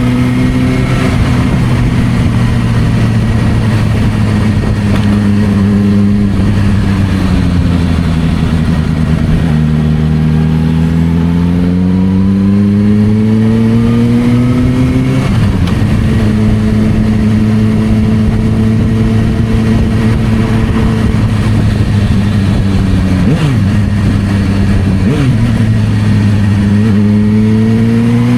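Suzuki GSR600 inline-four running through an aftermarket Dominator exhaust at low, easy revs. The pitch climbs slowly under gentle acceleration, drops suddenly about halfway through, holds steady, then climbs again near the end.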